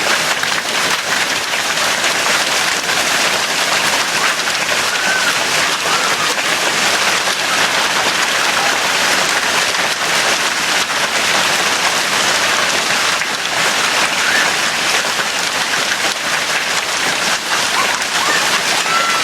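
Hailstones from marble to golf-ball size pelting down in a hailstorm, a loud, steady, dense patter of countless small impacts.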